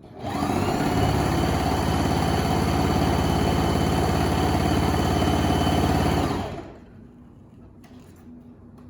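Electric sewing machine running steadily at speed, then stopping about six seconds in.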